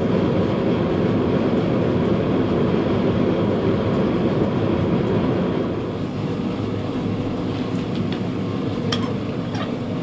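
Forge running, heating the blade for the quench: a steady rushing noise, with a few light metallic clicks near the end.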